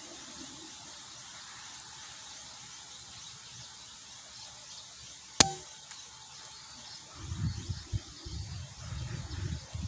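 A single sharp air-rifle shot about halfway through. From about seven seconds in, low, uneven wind buffeting on the microphone follows, over a steady hiss of wind.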